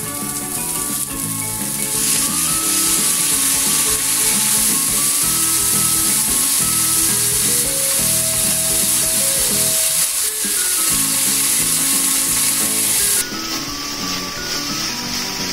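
Broccoli and sliced wiener sausages sizzling as they are stir-fried in a frying pan, the sizzle growing louder about two seconds in and dropping back near the end.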